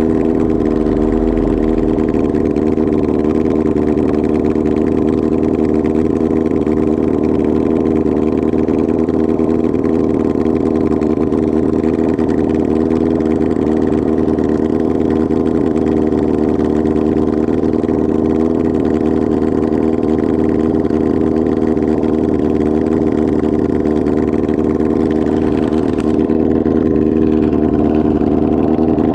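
Kawasaki ZR-7 air-cooled inline-four engine running steadily with its exhaust open, no muffler fitted. A short click sounds near the end.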